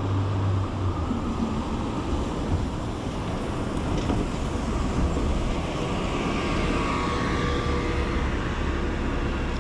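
Rain falling on a city street with traffic passing: a steady hiss over a low rumble of cars.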